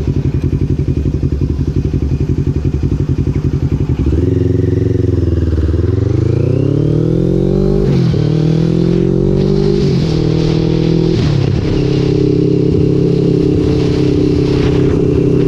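Motorcycle engine idling with a lumpy, pulsing beat, then pulling away about four seconds in. Its pitch rises and drops through three gear changes before it settles into a steady cruise.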